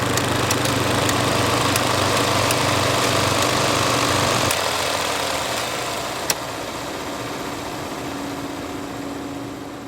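Film projector running: a steady mechanical hum with scattered sharp clicks. About halfway through, the low part of the hum drops away and the sound grows quieter, with one sharp click a little later.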